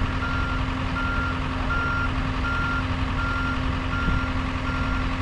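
A vehicle's reversing alarm beeping steadily, one high tone about once every three-quarters of a second, over the steady low hum of a running engine.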